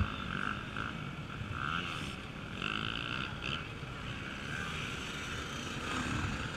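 Off-road race motorcycle engines running and revving, rising and falling in waves.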